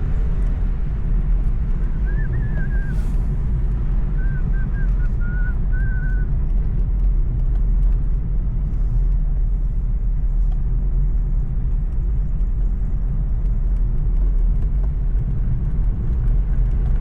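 Steady low rumble of a moving vehicle, with a few short high chirps a couple of seconds in.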